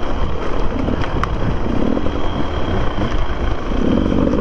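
Enduro dirt bike engine running on a trail, revving up and down, picked up by a camera mounted on the bike or the rider.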